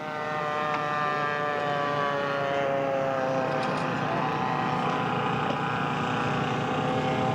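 Model aircraft engine running steadily, its pitch sliding slowly down over the first few seconds and then holding level.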